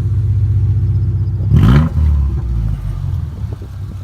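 Muffler-deleted Subaru Legacy exhaust running loud and low at idle, with one quick rev about one and a half seconds in before dropping back to idle. The pipe has an exhaust leak from saw slits left when the muffler was cut off.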